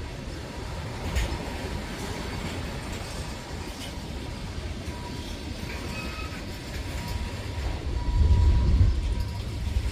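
Freight train rolling past: a steady low rumble of the cars on the rails, with a few sharp clicks of wheels over the rail joints. A faint, thin wheel squeal comes in from about five seconds in, and the rumble swells near the end.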